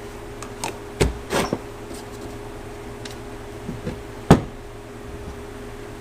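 Starter parts being handled on a workbench: a sharp knock about a second in, a short scraping rattle just after, and a louder knock a little past four seconds, over a steady background hum.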